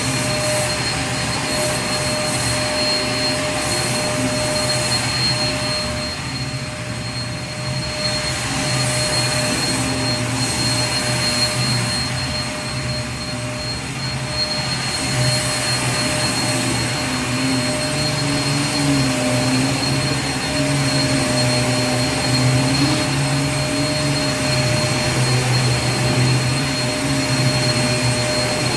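Vacuum cleaner running steadily without a break: a constant rushing noise with a fixed whine over a low motor hum.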